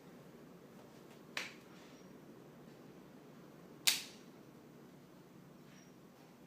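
Ceiling fan pull-chain switch clicking twice, about two and a half seconds apart, the second click louder, over a faint steady hum.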